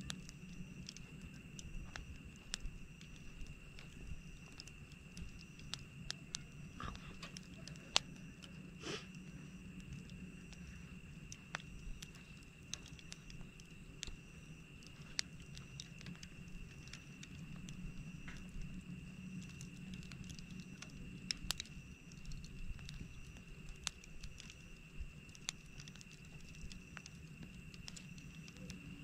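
Wood campfire crackling, with irregular sharp pops and snaps, the loudest about eight seconds in. Under it runs a steady high-pitched tone and a steady low background sound.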